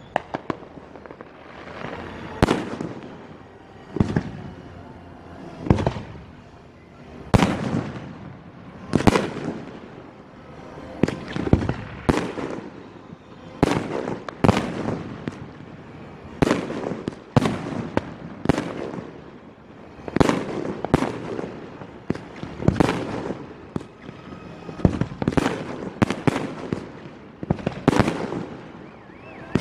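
Aerial fireworks shells bursting one after another, a sharp bang every second or two, each trailing off in an echo. The bangs come in quicker runs near the end.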